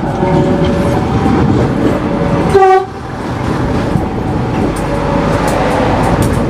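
A train rumbling past at a station, with one short horn blast about two and a half seconds in, then wheels clicking over the rail joints.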